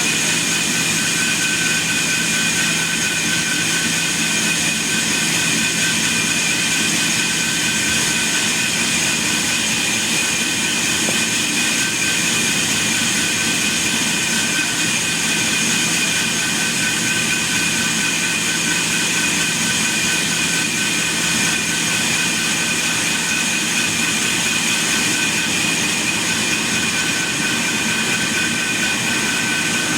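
Sawmill machinery running steadily: a constant mechanical noise with a steady high whine.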